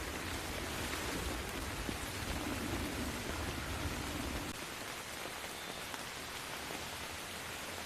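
Steady rain falling, an even hiss of many drops. Underneath it a low thunder rumble runs for the first four and a half seconds and then cuts off suddenly.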